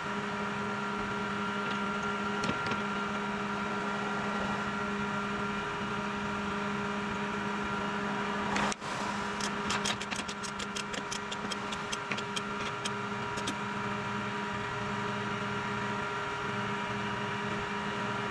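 Tow truck engine running at a steady idle with an even hum. About nine seconds in there is a sharp knock, followed by a few seconds of rapid clicking.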